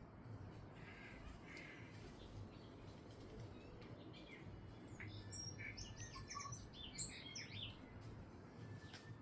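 Birds chirping faintly, with a burst of quick high chirps and twitters from about five to eight seconds in.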